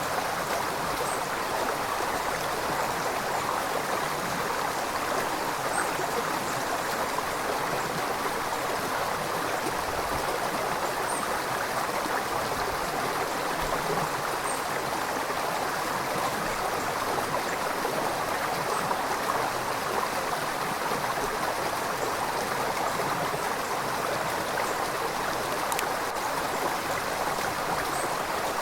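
River water flowing and gurgling in a steady, even rush with no pauses.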